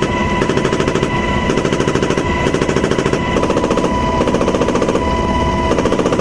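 M240H 7.62 mm machine gun firing one long continuous burst, about ten rounds a second, without a pause.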